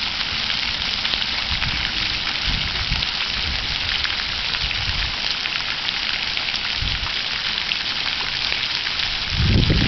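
Water fountain splashing: a steady hiss of falling water, with a louder low rumble near the end.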